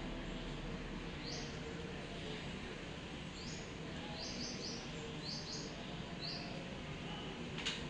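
A small bird chirping: short, high notes that sweep down, single at first and then in quick pairs and triples, over a steady background hiss. A sharp click comes near the end.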